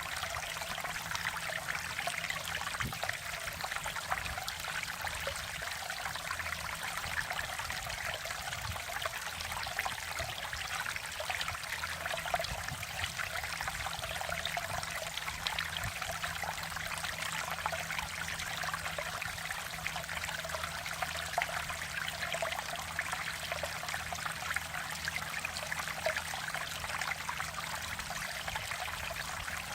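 Mountain valley stream flowing steadily, water babbling and splashing over rocks in a continuous, even rush.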